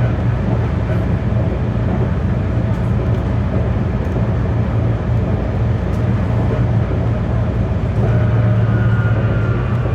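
Running noise of a GT-type low-floor tram, heard on board: a steady low hum with rolling noise. Near the end a whine rises in pitch.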